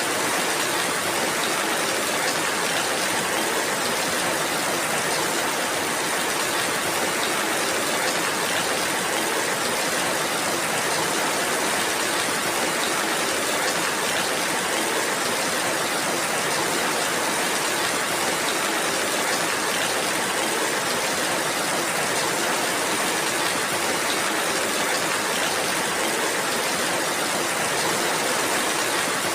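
Steady rainfall: an even, unbroken hiss of falling rain with a fine patter of drops, holding the same level throughout.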